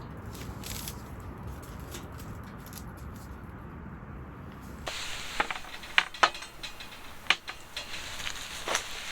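A steady low rushing noise, then from about five seconds in a brighter hiss with a series of sharp clicks and crackles.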